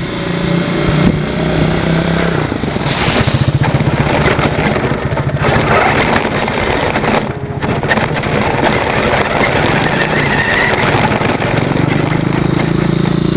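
Motorcycle engine running, mixed with the rushing, rattling noise of a camera riding on a small R/C car as it drives along. The engine's steady tone is clearest near the start and near the end, and the noise briefly drops about seven seconds in.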